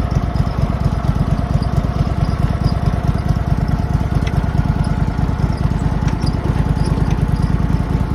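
Small engine of a riding garden tractor running steadily, with an even, rapid beat of firing pulses.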